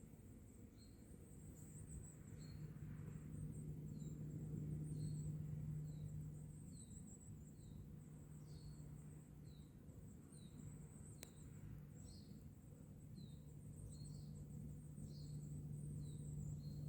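Woodland birdsong: a small bird repeating a short, downward-slurred note over and over, about one or two a second, over a thin, high continuous twittering. A low steady hum lies beneath, and there is one sharp click about eleven seconds in.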